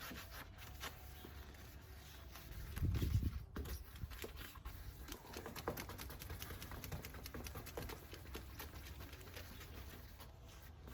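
Faint handling noises on the freshly wet-sanded headlight lens: scattered light taps and rubbing, with a dull thump about three seconds in.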